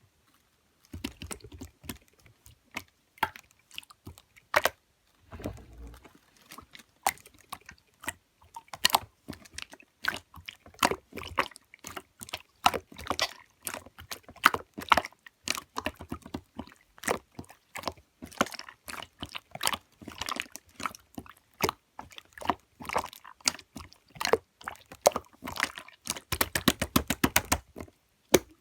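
Clear slime being squished and pressed by hand, making a dense, irregular run of wet clicks and small pops, with a few deeper squelches.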